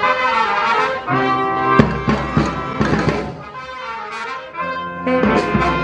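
Murga brass band playing: trumpets and trombones in sustained chords over drums.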